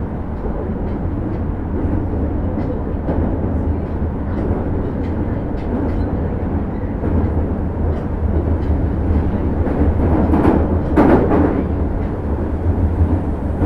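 Osaka Metro 30000 series subway train running: a steady low rumble of wheels on rail with faint regular clicks, and a brief louder hiss about three-quarters of the way through.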